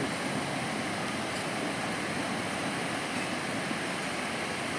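Steady wash of ocean surf breaking on a sandy beach, an even rushing noise with no distinct events.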